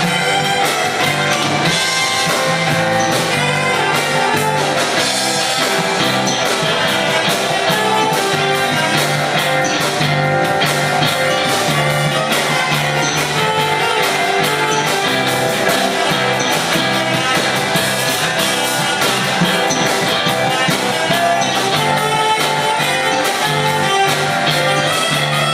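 Live band playing a jazz-fusion cover, with electric guitar over bass and drums at a steady beat.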